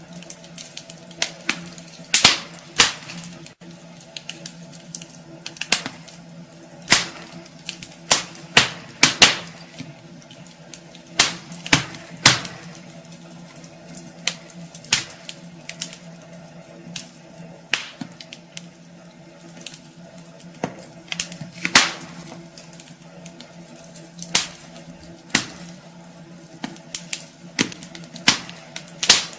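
Wood fire crackling in a fireplace, with irregular sharp pops and snaps from the burning logs over a faint steady hum.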